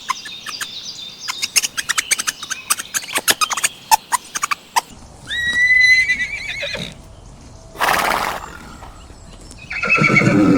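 A horse whinnying once with a quavering tone, after a run of rapid sharp clicks and knocks. A short breathy burst follows, and another pitched call comes near the end.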